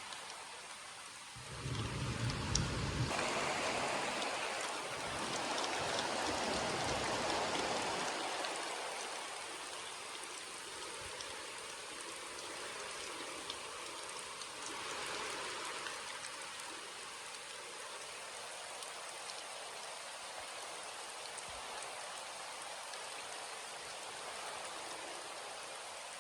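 Steady rain falling and pattering on surfaces. It gets louder for a few seconds a couple of seconds in, with a brief low rumble, then settles back to an even patter.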